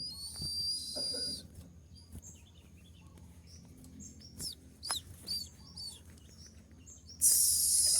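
Kolibri ninja sunbird singing: a fast, dense high-pitched trill, then scattered sharp chirps, then a louder rapid trill beginning about seven seconds in, the sharp 'tembak' (shooting) song style.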